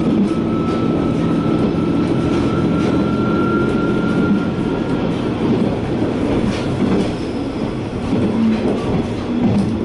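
Sanko Line diesel railcar running along the track, heard from inside the car: a steady drone of engine and wheels on rail with a few rail clicks. Over the first four seconds or so a thin high whine rises slightly and then fades, typical of wheels squealing on a curve.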